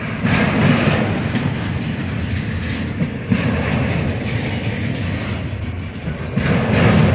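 Double-stack intermodal well cars loaded with shipping containers rolling past: a steady rumble of steel wheels on rail. It swells louder about half a second in and again near the end, with a couple of sharp clicks a little after three seconds.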